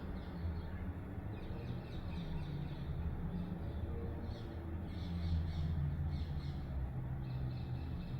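Washing machine running: a steady low hum with faint, quick scratchy sounds higher up.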